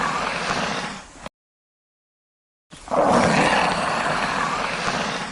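Komodo dragon hissing: a long, breathy hiss that ends a little over a second in, then after a gap a second, nearly identical long hiss.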